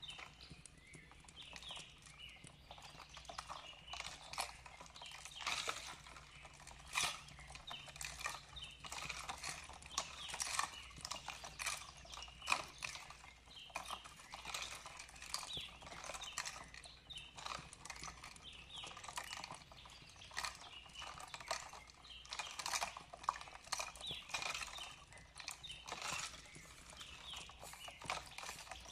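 Fireplace crackling: dense, irregular pops and snaps throughout, with faint bird chirps mixed in.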